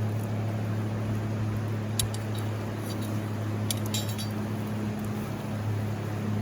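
Steady rushing of a river with a low hum, broken by a few sharp clicks, a single one about two seconds in and a quick cluster about four seconds in.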